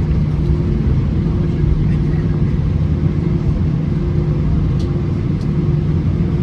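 Steady low rumble and hum of an Airbus A320-214's CFM56 engines heard inside the cabin while the aircraft is on the ground before take-off, with two faint clicks near the end.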